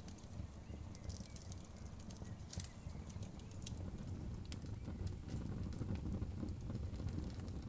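Wood fire burning, logs crackling with irregular sharp pops over a steady low rumble.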